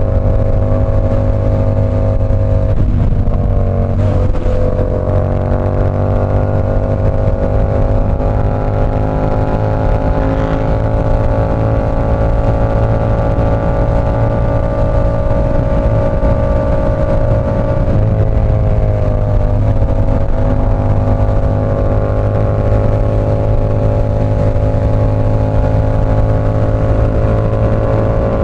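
Yamaha R7's 689 cc parallel-twin running through an SC Project CR-T exhaust at a fairly steady engine speed while riding. The engine note holds nearly level, dipping briefly about four seconds in and again near eighteen seconds.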